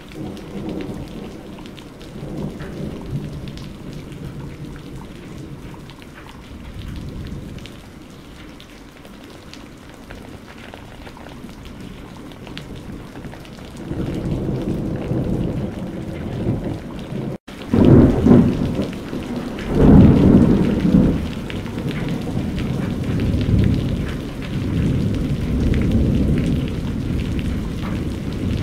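Thunderstorm: steady rain with rolling thunder. The low rumbles swell from about halfway, and the loudest thunder comes a little after the middle, in two big peaks close together, followed by long rumbling. There is a split-second gap in the sound just before the loudest thunder.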